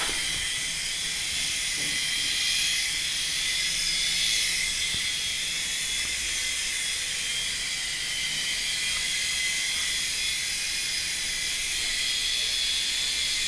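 Toy helicopter's small electric motor and rotor whirring steadily, a high hiss with a faint whine.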